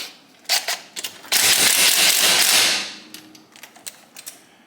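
Ratchet wrench working at a bolt on a motorcycle engine case: a few sharp clicks, then a loud rapid rattle lasting about a second and a half, then scattered clicks again.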